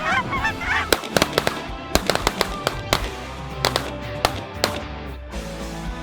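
Geese honking, then a rapid volley of shotgun fire from several guns, more than a dozen sharp shots in under four seconds.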